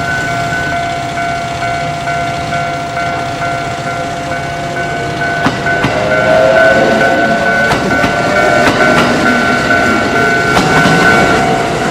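Railway level-crossing alarm ringing in a steady repeating pattern. From about halfway a Kintetsu train runs through the crossing, getting louder, with sharp clicks from its wheels over the rail joints.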